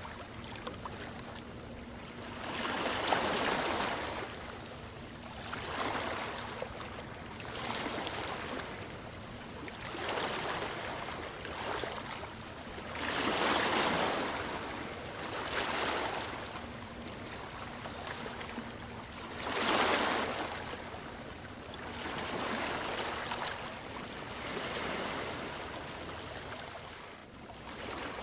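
Ocean waves washing in and drawing back, a swelling rush every two to three seconds, with the biggest surges about three seconds in and again near twenty seconds.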